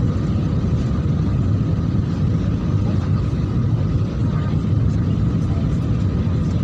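Steady low rumble of a jet airliner heard from inside the cabin during landing, with a faint steady whine above it.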